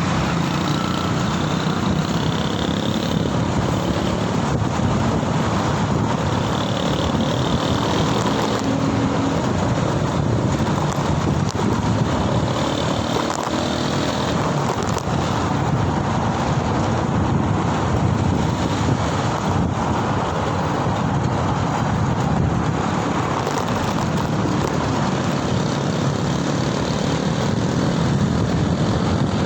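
Continuous road and traffic noise heard while riding through city streets: a steady rush of wind and tyres with motor vehicles running close by.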